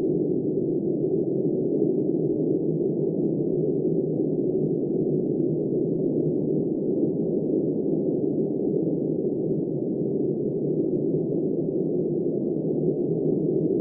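Steady, low, muffled wind noise of a snowstorm, an even rush with no gusts or breaks.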